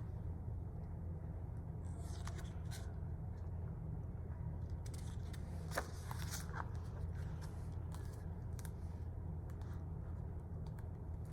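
Faint rustles and scattered light clicks of a picture book's paper pages being handled, over a steady low hum.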